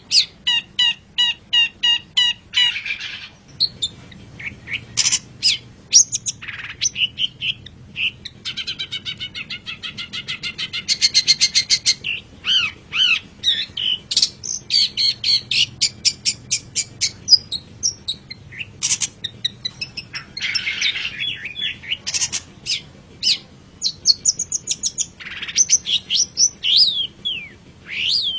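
Long-tailed shrike (cendet) singing a fast, varied song: runs of rapid repeated notes and trills, sharp rising and falling chirps, and a few harsh buzzy phrases.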